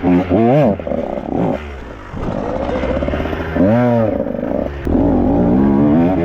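Dirt bike engine revving up and down over and over with quick throttle blips, one sharp rise and fall about four seconds in, and a brief click just before five seconds.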